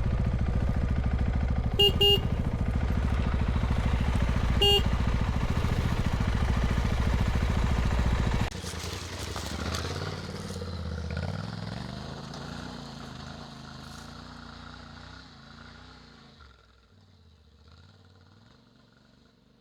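Adventure motorcycle engine running steadily, with short beeps about two and five seconds in. About eight seconds in, the loud engine sound cuts off abruptly, leaving a quieter engine sound whose revs rise and fall as it fades away to near quiet.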